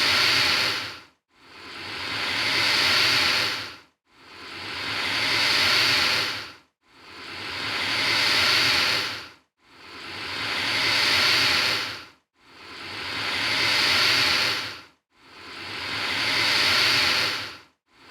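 Alligator hissing: one long, breathy hiss repeated about every three seconds. Each hiss swells up over a couple of seconds and then dies away quickly, with a brief silence before the next.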